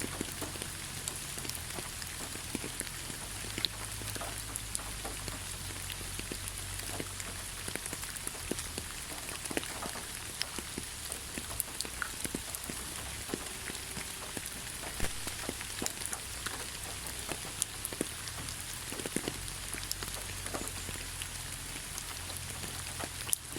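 Steady rain falling in a pine forest: an even hiss with many separate drops tapping close by.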